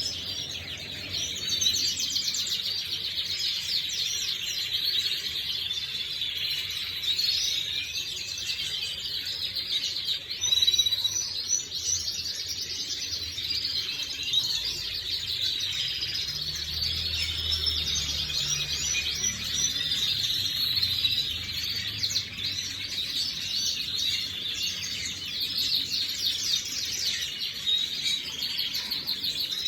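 Domestic canary singing: a long, unbroken run of rapid high trills and chirps.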